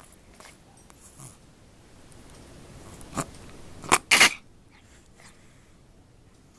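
Dog with a breathing problem making three short, harsh breath sounds about three to four seconds in, each louder than the last, the final one the longest.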